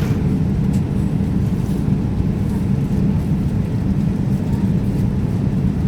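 Steady low drone of an airliner's cabin in flight: jet engine and airflow noise heard from inside the cabin, even and unchanging, with most of its weight in the low range.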